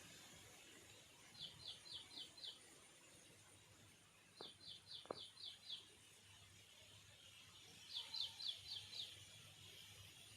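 A small bird singing: three phrases of five quick, high chirps each, a few seconds apart, over a faint outdoor background.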